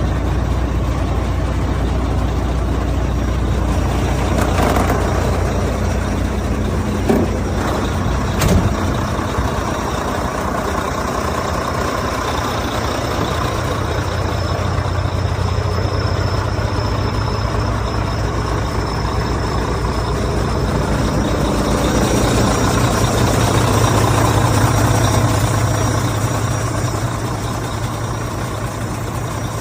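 Volvo D13 inline-six diesel engine of a semi truck running, with two sharp clicks about seven and eight and a half seconds in. The engine grows louder for several seconds about three quarters of the way through, then eases back.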